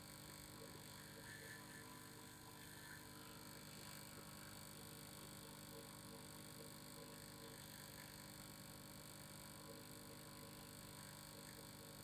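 Faint, steady vibrating hum made of several held tones, with no change throughout.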